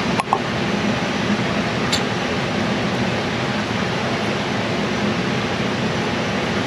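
Steady, even rushing noise like a ventilation fan or air-handling unit running. A sharp click comes a moment in, and a faint tick about two seconds in.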